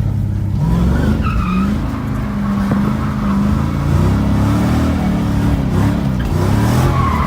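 Drift car engine revving up and down several times as the throttle is worked. Near the end a steady tire squeal sets in as the car slides.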